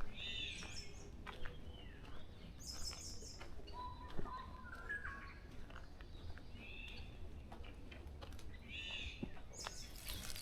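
Wild birds calling: short chirped phrases every second or two, mostly high, with a lower run of rising, stepped notes about four seconds in. A steady low rumble runs underneath.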